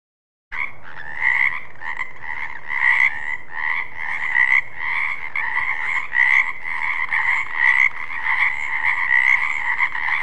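Frogs croaking in a steady, pulsing chorus, about two croaks a second; it starts suddenly about half a second in.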